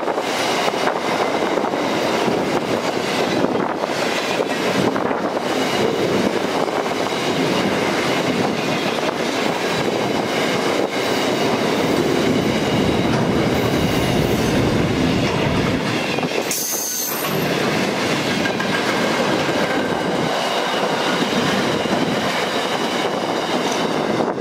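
Loaded steel freight wagons rolling past on the rails: a steady rumble and rattle of wheels on track, with a faint high-pitched whine from the wheels. A brief high hiss cuts in about two-thirds of the way through.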